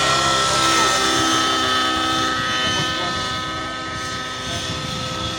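Radio-controlled model helicopter in flight: a steady high-pitched whine from its motor and rotors, loudest in the first couple of seconds and easing off a little toward the end.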